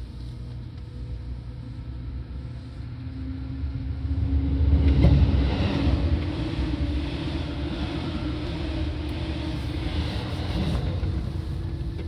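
Seibu 2000 series electric commuter train running: a continuous low rumble of wheels on rail, with a whine that climbs slowly in pitch. The rumble swells loudest about five seconds in, then eases back.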